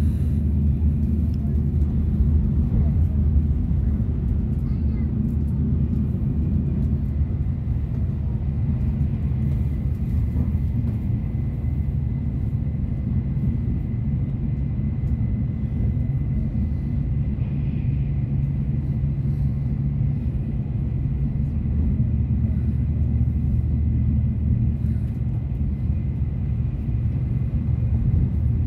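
Steady low rumble of a Shinkansen bullet train running at speed, heard from inside the passenger cabin. A faint thin whine sits above it through the middle.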